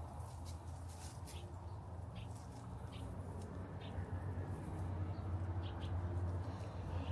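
Birds giving short chirps here and there over a steady low rumble.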